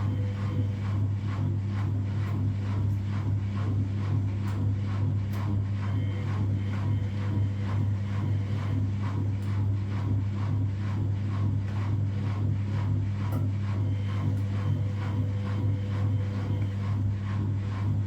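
Washing machine spinning at high speed: a steady, unbroken drone with a regular faint pulsing running through it.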